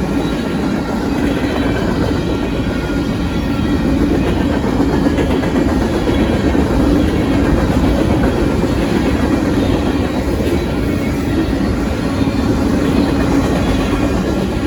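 Union Pacific freight train's cars rolling past at close range, a loud, steady rumble of steel wheels on the rails.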